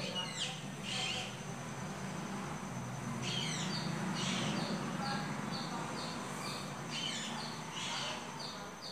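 A bird calling: a few quick falling chirps, then a run of short, even, high notes about two a second, over a low steady hum.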